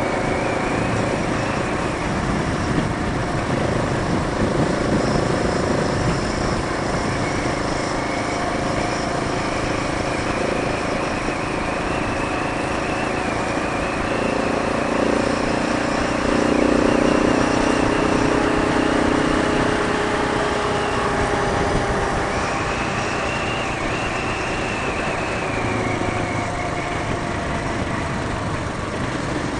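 Motorcycle engine running at road speed under a steady rush of riding noise. The engine's tone drifts up and down as the speed changes, and it gets louder for a couple of seconds around the middle.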